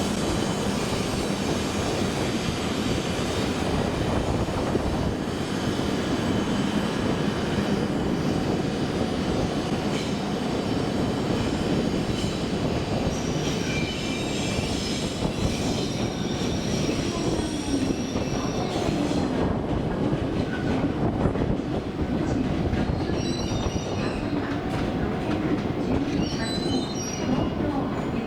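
E7 series Shinkansen train running slowly into a station platform, a steady rumble of wheels on rail, with high squealing from the wheels and brakes coming in about halfway through as it slows.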